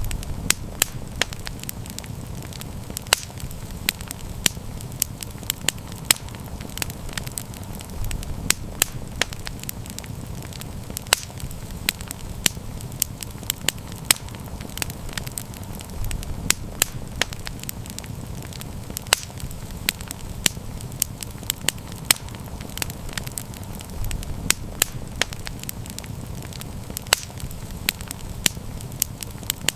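Wood fire crackling: a steady low rumble of burning with frequent sharp, irregular pops and snaps, several a second.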